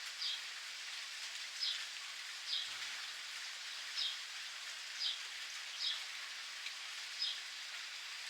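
Steady rain falling, with a bird repeating a short, high chirp about once a second.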